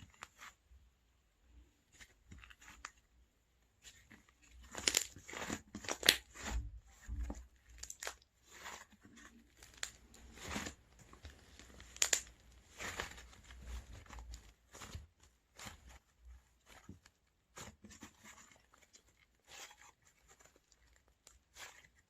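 Oreo-style slime being squeezed, poked and stretched by hand, giving irregular crackling, popping and tearing clicks, loudest in clusters a few seconds in and again about halfway through.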